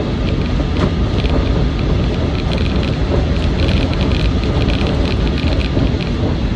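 Land Rover Defender 90's 300Tdi four-cylinder turbodiesel running under way with steady road and tyre noise, heard from inside the soft-top cabin, with light rattling ticks over the rumble.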